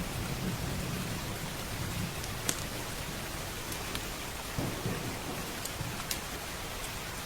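Steady rain with low rolling thunder rumbling through the first couple of seconds and again just past the middle. A few sharp pops from a crackling wood fire.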